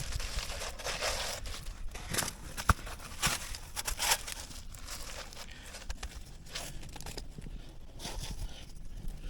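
Irregular rustling and scraping handling noises, with one sharp click or knock a little under three seconds in.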